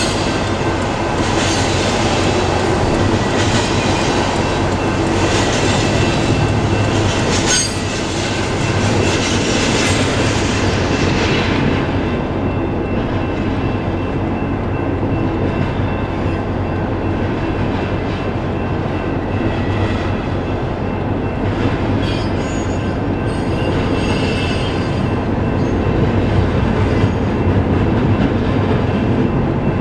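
Doublestack container freight train rolling past: a steady rumble with wheels clattering over rail joints about once a second, brighter and sharper for the first ten seconds or so and then a duller rumble.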